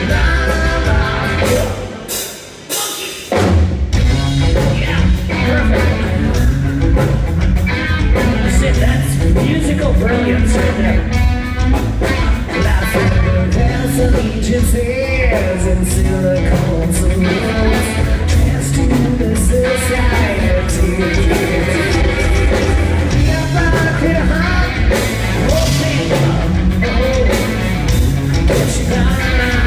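Live rock band playing with drum kit, guitar and a male singer. The band cuts out briefly about two seconds in, then comes back in full and plays on steadily.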